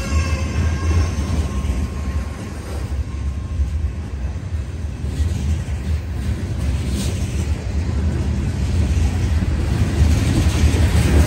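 Freight train of covered hopper cars rolling past at close range: a steady rumble of steel wheels on the rails.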